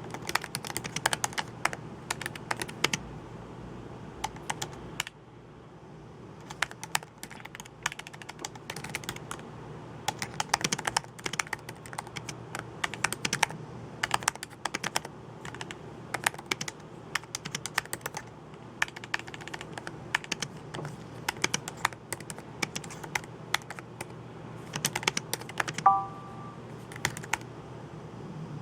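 Typing on a computer keyboard: irregular runs of keystroke clicks with short pauses. Near the end, a brief rising three-note electronic chime sounds over the typing.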